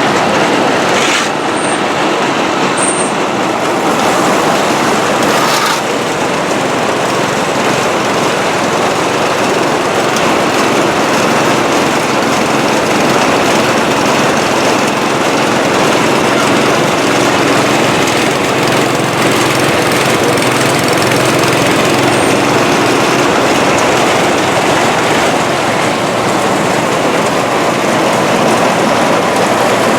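Vintage farm machinery running steadily: a loud, dense mechanical noise without pauses, briefly changing about a second in and again near six seconds.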